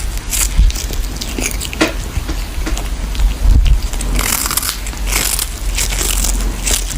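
Irregular crunching and biting of something crisp being chewed, with sharp clicks among the crunches.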